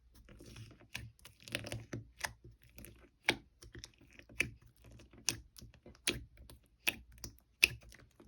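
Close-up crunching of crispy food being chewed, with sharp crackly crunches coming about every 0.8 seconds.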